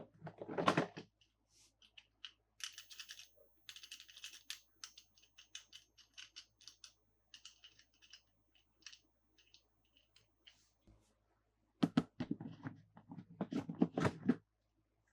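Toy packaging being handled and opened by hand: a burst of rustling, then a run of fine crackling clicks, scattered small clicks, and more rustling and handling near the end.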